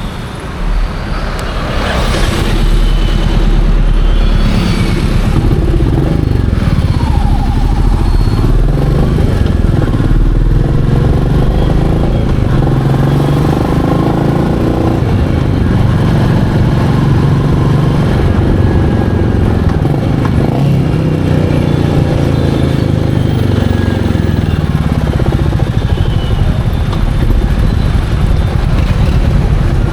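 Royal Enfield Meteor 350's single-cylinder engine running while the motorcycle is ridden, its pitch rising and falling with throttle and gear changes.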